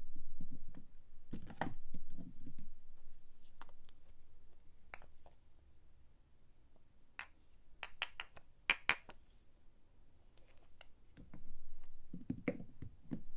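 Hands unpacking soap: soft rustling and handling of the packaging, with a quick run of sharp clicks and taps about seven to nine seconds in.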